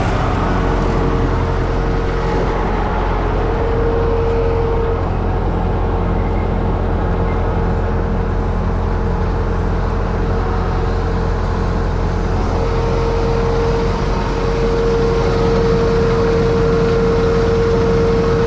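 Universal U650 tractor's four-cylinder diesel engine running steadily, with a high steady whine over it that comes up briefly a few seconds in and again in the second half.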